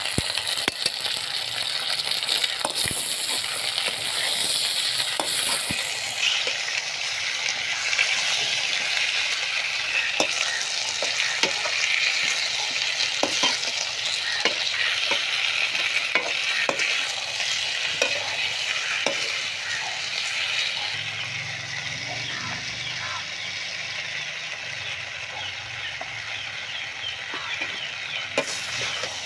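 Potato slices sizzling in hot oil in a steel wok, stirred with a perforated metal skimmer spoon that clicks and scrapes against the pan again and again. The sizzle eases a little about two-thirds of the way through, then picks up again near the end.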